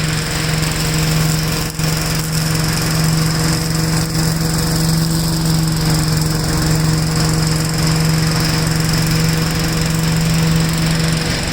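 1969 Gravely walk-behind tractor's single-cylinder engine running steadily under load as its mower attachment mulches leaves. There is a brief dip in the sound under two seconds in.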